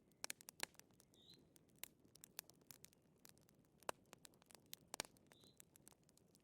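Faint wood fire crackling: irregular sharp pops and ticks over a low hiss, with two louder pops a second apart near the end and a couple of short high squeaks.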